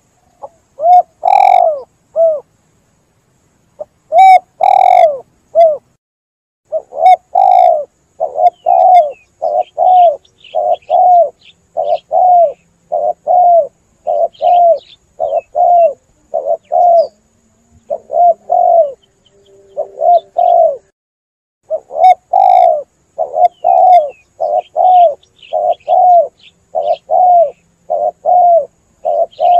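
Spotted dove cooing: a long run of hollow coos, about one and a half a second, in phrases broken by short pauses. Faint, high chirps of other small birds sound in the background.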